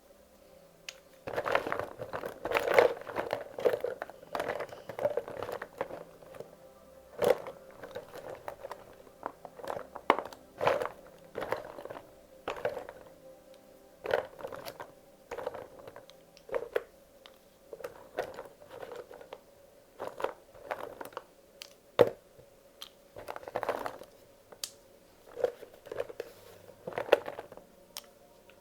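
Wax crayons being handled and sorted: irregular clicks and clattering as crayons are picked up, knocked together and dropped into place, with a busier run of rattling in the first few seconds.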